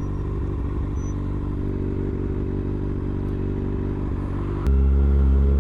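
Kawasaki ZX-6R 636 inline-four motorcycle engine running steadily at low speed. About three-quarters of the way in, the low rumble suddenly gets louder and stays up.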